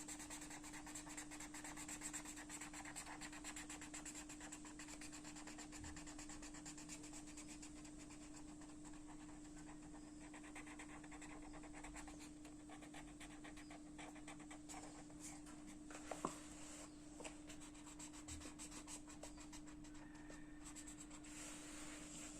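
Faint rapid scratching of colouring strokes being rubbed back and forth on paper, over a steady low hum, with one sharp click about sixteen seconds in.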